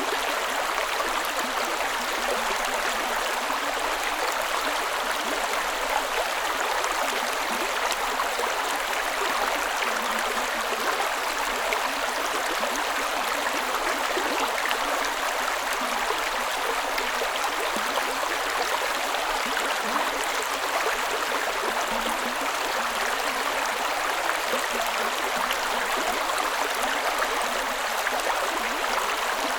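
Creek water running steadily over rocks, with a continuous babbling and gurgling rush.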